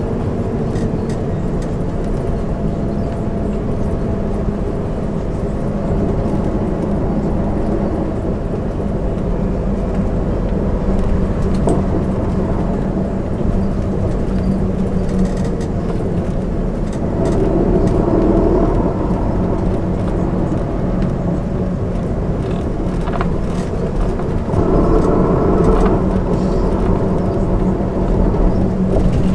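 1999 MAN ÜL 353 intercity bus driving, heard from inside: a steady drone of engine and road noise that grows louder twice, about halfway through and again near the end, with light rattles now and then.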